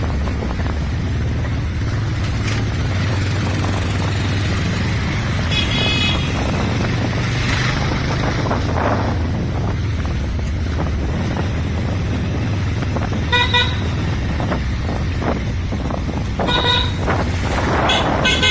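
Motorcycle engine running steadily while riding, with wind on the microphone and several short vehicle horn honks, one about a third of the way in and the others in the last third.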